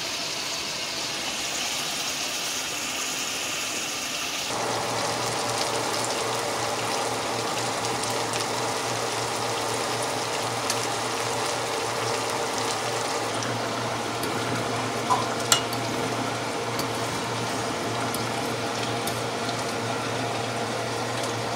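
Chicken pieces sizzling as they brown in curried oil in a pot on the stove, a steady sizzle with a low steady hum under it. The sound shifts in tone about four and a half seconds in, and a couple of faint clicks come near the middle.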